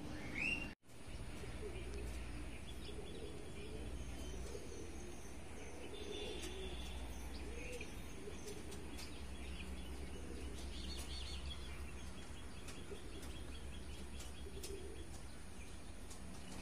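Birds chirping and calling over a steady low rumble. The sound drops out for a moment about a second in.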